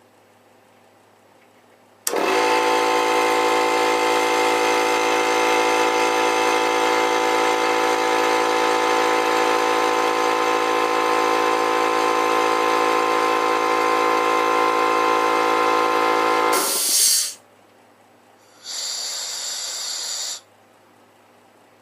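Harbor Freight air compressor's motor and pump running steadily for about fifteen seconds, then shutting off with a short hiss of air as the pressure switch cuts out. A second, shorter and quieter hiss of escaping air follows about two seconds later.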